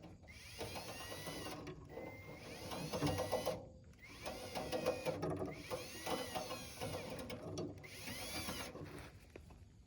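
Drill spinning a bicycle cable through a clogged fuel return line, run in about five short bursts, its motor whine rising and falling in pitch with each trigger pull.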